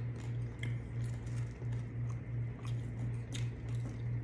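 Chewing and biting into battered fried fish and shrimp, with scattered short clicks and crackles, over a low hum that pulses about twice a second.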